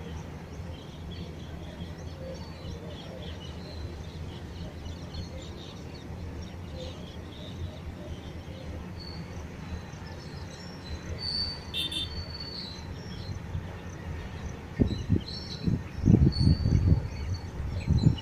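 Steady low rumble of a long freight train passing in the distance, with birds chirping now and then. In the last few seconds, loud irregular low buffeting hits the microphone.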